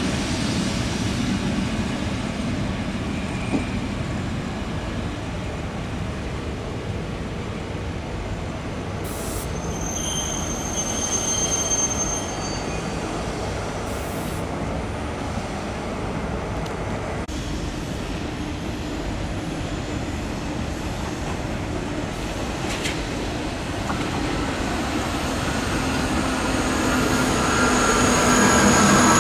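A train rolling on the rails with a steady rumble. Its wheels squeal high about ten seconds in, and again near the end as the sound grows louder.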